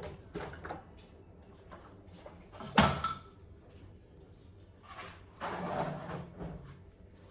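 Things being handled while a bag is packed: a sharp knock with a brief ring about three seconds in, then a second or so of rustling.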